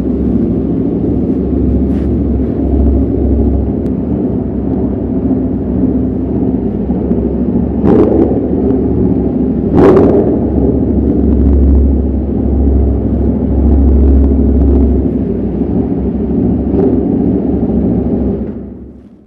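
Aprilia RSV4 RF's V4 engine running through an SC Project S1 exhaust with a steady, deep rumble and no clear revving. There are two sharp cracks about eight and ten seconds in, and the sound fades away in the last second.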